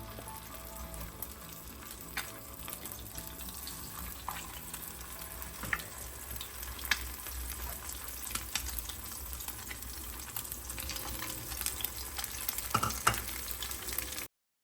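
Egg-dipped chicken shami kababs sizzling as they fry, a steady hiss with scattered pops and a few sharper crackles. The sound cuts off abruptly near the end.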